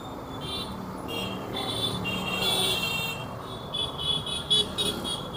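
City street ambience with a steady rumble of road traffic, overlaid by on-and-off high-pitched chirping tones. A few sharp clicks come about four to five seconds in.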